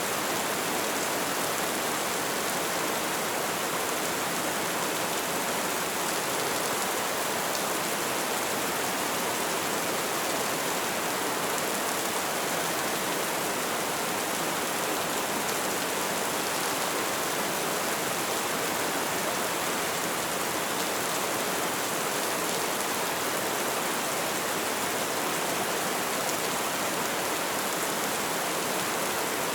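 Light rain falling, a steady even hiss with no single drops standing out.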